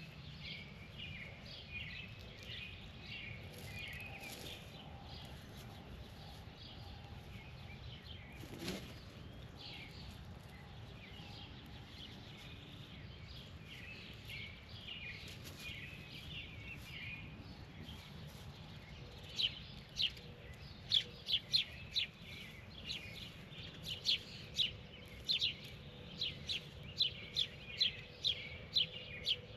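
Birds chirping at a feeding spot over a low, steady background rumble. From about two-thirds of the way through, one bird gives loud, sharp chirps, two or three a second. There is a single brief whoosh about nine seconds in.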